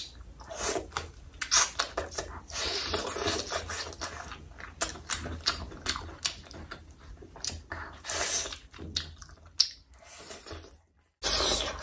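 A person biting and chewing a saucy curry chicken thigh: a string of irregular wet mouth clicks and chewing noises, which cut out briefly near the end.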